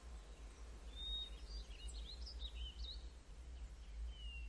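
Faint birdsong: a cluster of short high chirps and whistled notes, then a single falling whistle near the end, over a low steady background hum.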